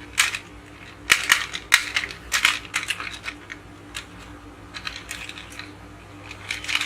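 Light clicks and clatter of small toy cars being handled and set down on a hard surface, in scattered groups about a second apart.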